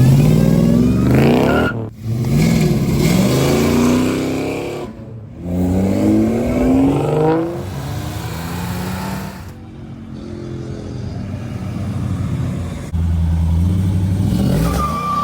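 Sports car engine accelerating hard. Its note climbs in pitch three times in the first seven seconds, each climb cut off sharply. It then drops to a quieter running note, and a loud low rumble returns near the end.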